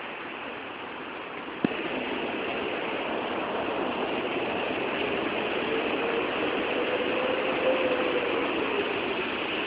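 Old passenger train running, a steady mechanical rattle and clatter. A single knock comes a little under two seconds in, after which the noise is louder, and a faint tone rises and falls through the second half.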